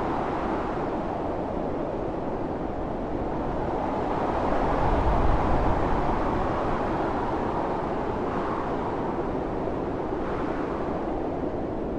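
Strong blizzard wind blowing steadily, a deep rushing noise that swells into a stronger gust about halfway through.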